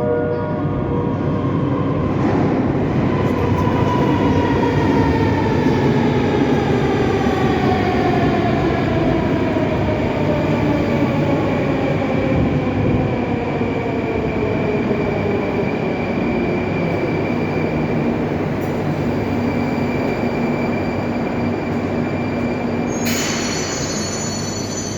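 Moscow Metro train pulling into the station: steady rolling rumble with an electric motor whine falling in pitch as it slows. About 23 seconds in there is a sudden hiss with a high squeal.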